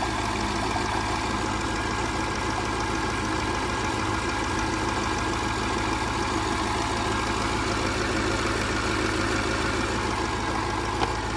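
Land Rover LR4 engine idling steadily under the open hood. The owner takes it for a blown head gasket, with coolant frothing in the expansion tank and sweet-smelling smoke from the exhaust.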